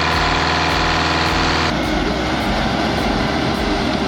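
An old road grader's diesel engine idling steadily with an even low pulse. About two seconds in, the sound cuts abruptly to a rougher, noisier engine running.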